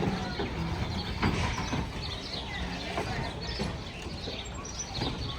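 Steam railroad train rolling past: a steady low rumble with irregular clanks, and birds chirping.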